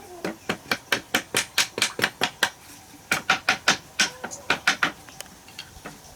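Hammer blows struck in quick succession, about four to five a second, in two runs with a short pause near the middle.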